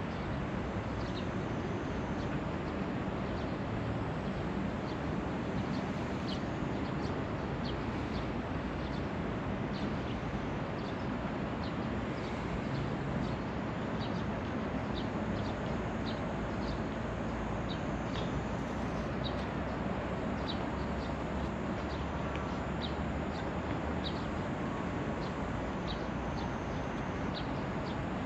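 Small birds chirping, many short high calls repeated at irregular intervals, over a steady background rumble and hiss.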